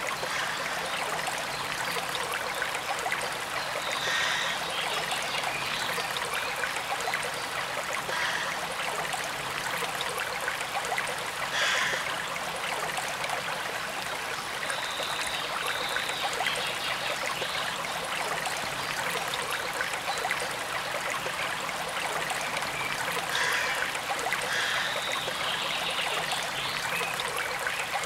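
Forest stream running and trickling in a steady rush of water, with a few short high bird chirps over it.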